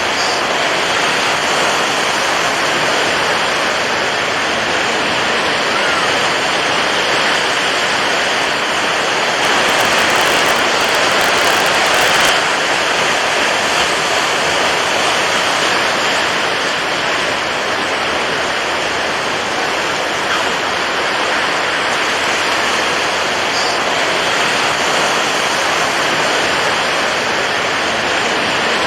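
Rushing water making a continuous, even wash of noise, swelling slightly about ten seconds in.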